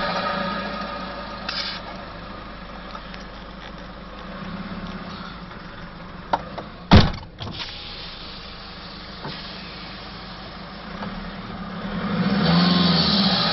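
Turbocharged Nissan Navara engine with an open airbox dropping from a rev back to a steady idle, then revved again near the end with a rise and fall in pitch, its turbo whistle heard through the open intake. A sharp knock about seven seconds in, just after a smaller click, is the loudest sound.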